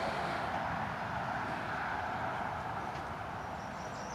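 Steady hiss of distant highway traffic, fading slightly, with a brief bird chirp near the end.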